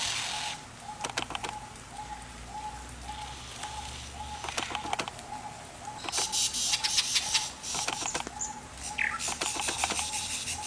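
Birds flapping their wings in short rustling bursts, the loudest about two-thirds of the way through, over a short bird note repeated about three times a second.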